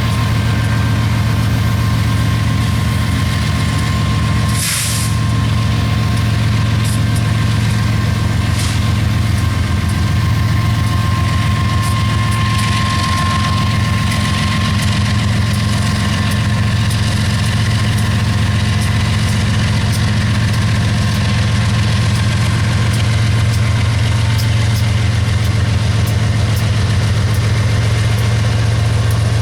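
Diesel locomotive engine running steadily close by, a deep even hum, with one short hiss of air about five seconds in.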